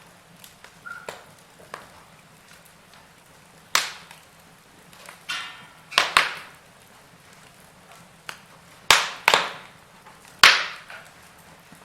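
Wood fire crackling, with about six sharp pops, some in quick pairs, and fainter ticks between them over a low hiss. A short hiss sounds about halfway through.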